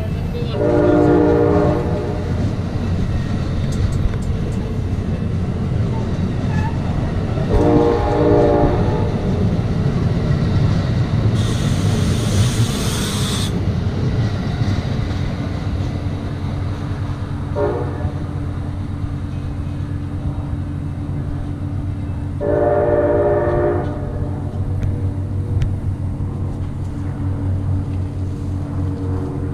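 Amtrak Amfleet passenger cars rumbling and clattering past on the rails while a train horn sounds four separate blasts: long, long, short, long. A two-second hiss comes near the middle.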